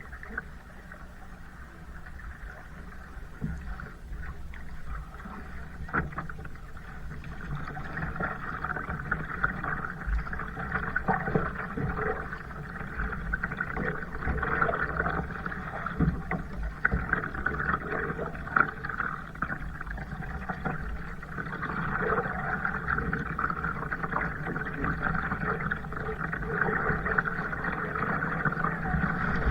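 Water sloshing and splashing around a kayak on the move, with small scattered splashes, growing gradually louder.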